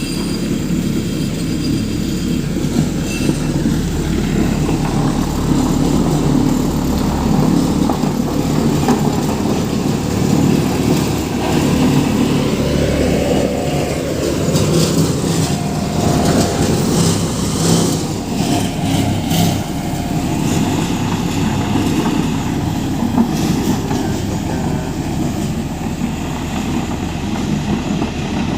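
JCB 3CX backhoe loader's diesel engine running under load, rising and falling in pitch around the middle, with a few metallic clanks.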